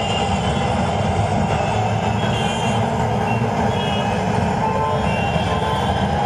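A steady, loud rumbling noise, heaviest in the low range, with faint tones scattered above it.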